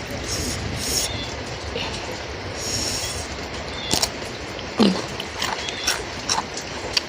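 Steady hiss of falling rain, with a few sharp clicks and a short sound falling in pitch about five seconds in.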